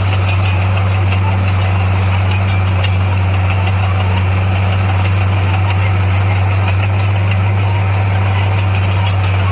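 Heavy earthmoving machine's diesel engine running at a steady, even pitch: a deep, constant drone.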